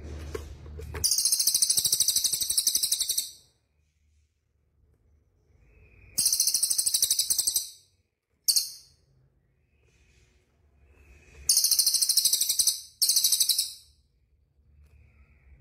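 Recorded small songbirds giving loud, very high-pitched rapid trills in five separate bursts of one to two seconds each, with quiet gaps between.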